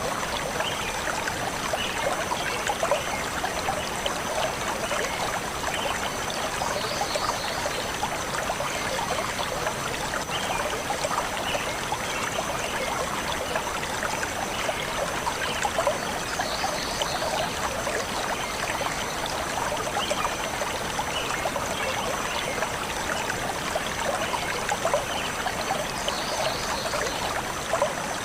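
Forest stream flowing steadily over stones, a continuous rushing and trickling of water. Short, high bird chirps come faintly through it a few times, about ten seconds apart.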